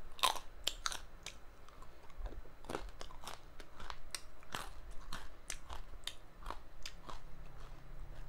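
Close-up chewing of a crunchy fried snack: irregular sharp crunches, one or two a second, picked up by a clip-on microphone.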